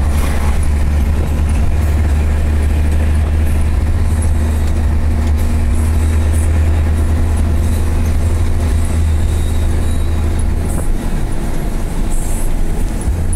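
Scania 111 truck's six-cylinder diesel engine running loud and steady with a deep drone, easing off about eleven seconds in.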